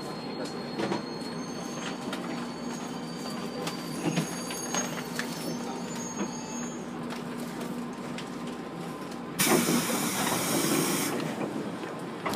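JR Kyushu 811 series electric train standing at a station, its on-board equipment giving a steady hum with a few faint clicks. About nine and a half seconds in, a loud hiss of compressed air lasts for nearly two seconds.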